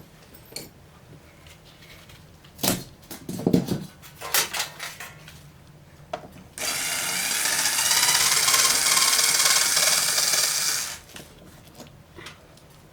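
A few knocks and clattering, then a power drill runs steadily for about four seconds and stops.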